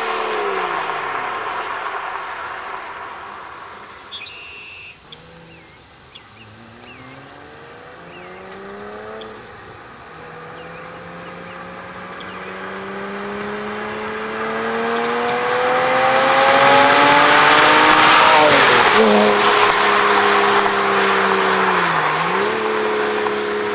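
Porsche Cayman with a Stebro sport exhaust driving past. The engine note falls and fades as the car moves off, then climbs in pitch and loudness under acceleration, with a short lift between revs. It is loudest about three-quarters of the way through, where the pitch drops sharply as the car goes by, then settles to a steadier drone.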